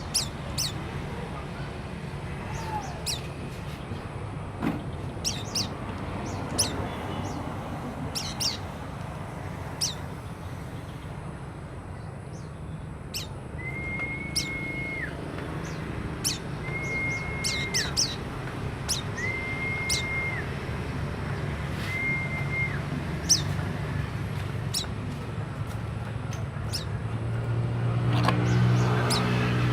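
White-eye (pleci) giving short, high chirps scattered throughout. Around the middle come four long level whistles. Near the end a passing vehicle's engine rises.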